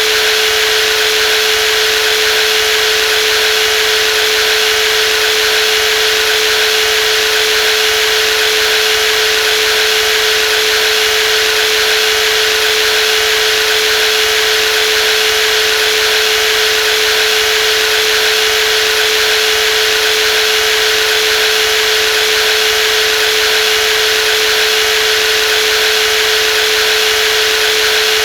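Brushless jigsaw motor running at a constant speed: a steady whine over an even hiss, with no change in pitch or load.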